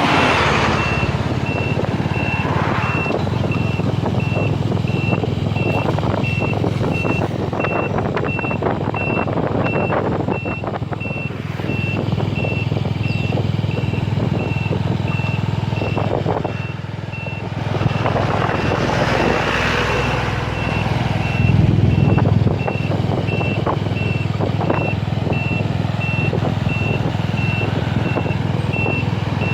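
Electronic warning beeper sounding steadily at about two short high beeps a second, over a loud, continuous rushing noise with a heavy low rumble.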